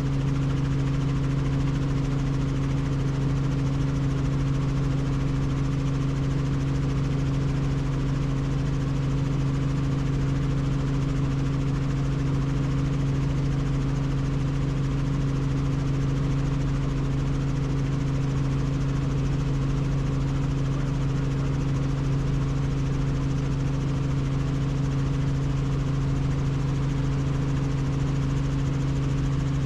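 Helicopter in flight: the steady hum of its engine and rotors with an even rush of noise, unchanging throughout.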